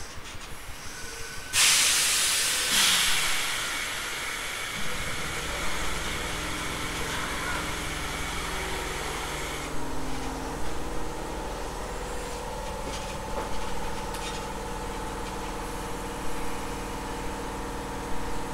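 Compressed air venting from a standing Tobu 850-series electric train: a sudden loud hiss about a second and a half in that slowly fades and cuts off about ten seconds in. From about five seconds in, the car's onboard machinery hums steadily, with a few light clicks.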